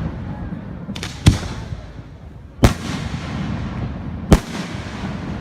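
Fireworks bursting: three loud bangs about a second and a half apart, with a smaller bang just before the first, and a low rumble between them.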